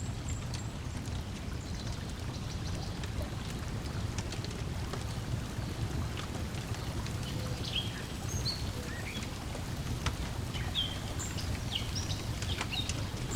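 Layered lakeside ambience: a steady low wash of water lapping, with scattered wood-fire crackles and pops and birds chirping, the chirps busier in the second half.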